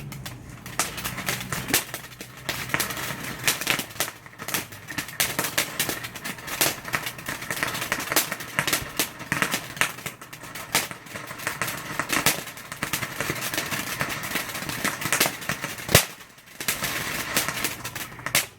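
Consumer fireworks going off with dense, rapid crackling and popping, one loud bang about sixteen seconds in, then a short spell of crackle that stops abruptly at the end.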